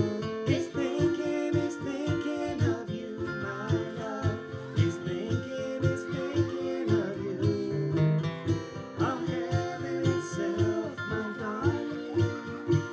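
Acoustic guitar playing an instrumental break in an old-time country duet, picked melody notes over a steady rhythm of strummed bass strokes.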